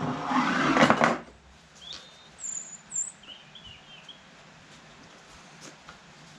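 A loud burst of rustling and scraping lasting about a second, then a few short, high bird chirps.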